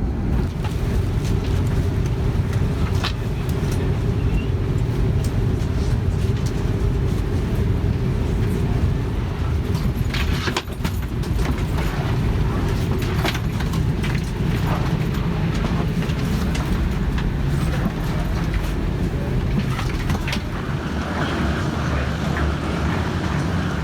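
Steady low rumble of a moving vehicle heard from inside, with scattered rattles and knocks.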